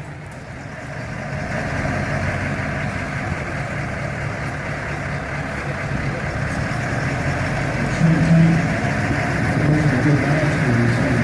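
A Sherman tank's engine running steadily, its low engine note growing louder about eight seconds in.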